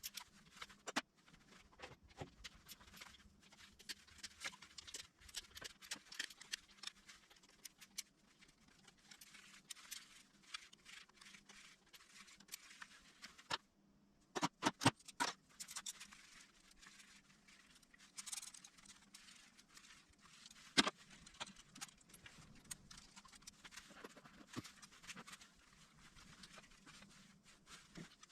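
Small metal clicks and clinks from hand tools and engine parts being handled, scattered and irregular, with a louder flurry about halfway through.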